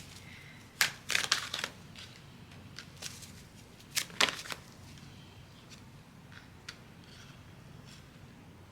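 Tarot cards being handled: short bursts of card snapping and riffling about a second in and again about four seconds in, then a few faint soft clicks.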